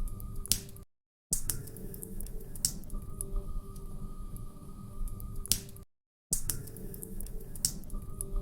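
Log fire in a fireplace crackling, with irregular sharp pops over a low rumble of flames. The sound cuts out completely twice for about half a second.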